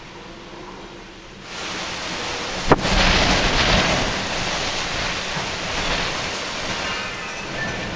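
Strong, gusty storm wind with rain rushing over the microphone. The rush comes on suddenly about a second and a half in, with a sharp knock soon after, and is heaviest a second later.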